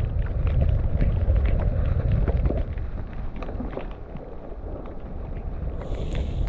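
Mountain bike descending a wet, muddy trail: wind rumble on the microphone with tyre noise on wet ground and rapid clicks and rattles from the bike over the bumps. The rumble eases about two and a half seconds in.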